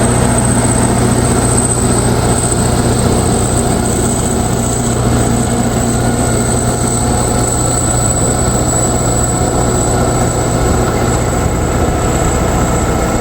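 Kirovets K-700 tractor's turbocharged V8 diesel running steadily under a deep, even drone, with a high steady whistle over it.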